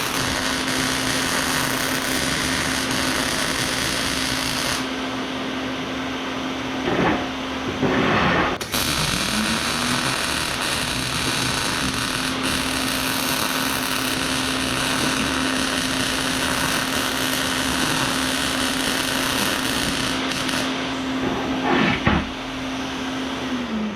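Electric power tool motor running steadily. Its pitch sags and recovers about nine seconds in, and it winds down at the very end.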